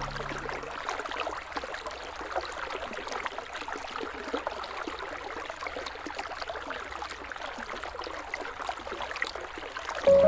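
River water flowing steadily, with a fine trickling and babbling texture. A fading held musical chord lingers at the very start, and music comes in again just before the end.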